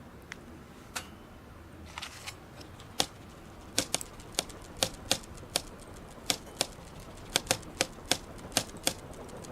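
Small wood fire crackling: sharp, irregular pops, a few at first and then coming quicker from about three seconds in.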